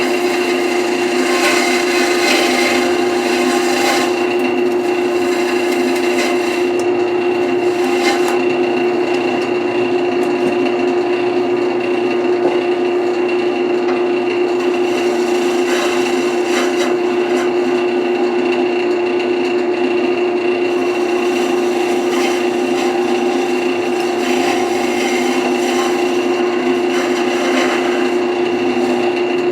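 Wood lathe running with a steady hum while a carbide-insert turning tool scrapes and cuts the spinning wet wood, the cutting noise changing as the tool moves over the piece.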